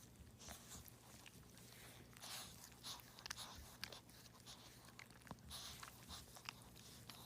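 Faint, irregular wet licking and chewing sounds from a Shih Tzu, with a few small clicks, over a faint steady hum.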